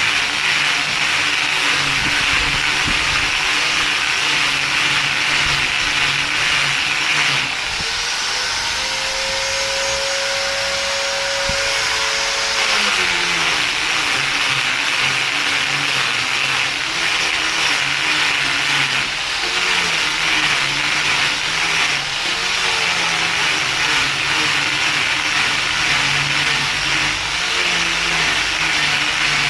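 A motor running continuously, its pitch wandering up and down. Midway it holds a steadier tone for a few seconds, then drops in pitch.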